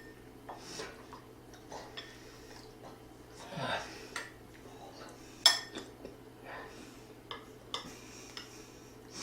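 Eating utensils clinking and tapping against dishes during a meal: scattered light clicks, with one sharp ringing clink about five and a half seconds in. A short vocal sound falls in pitch about three and a half seconds in.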